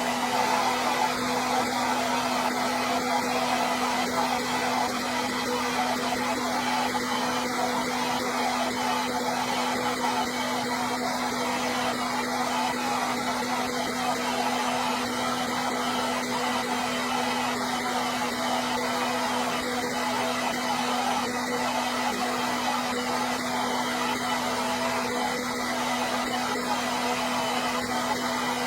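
Hair dryer running steadily: a continuous rushing blow of air with a steady low hum of the motor beneath it, unchanging throughout.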